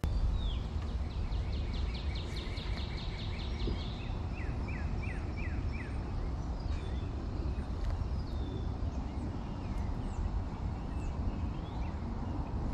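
Wild birds calling: a fast run of repeated notes about two seconds in, then a handful of short downward-sliding chirps, with more scattered chirps after. Under them is a steady low rumble.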